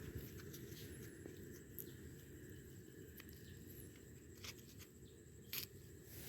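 Faint rustling with a few light clicks and taps over a low steady rumble and a thin, steady high-pitched tone.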